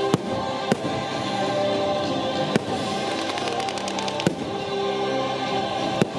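Fireworks going off over orchestral show music with a choir: several sharp bangs a second or two apart, and a quick run of crackles a little past halfway.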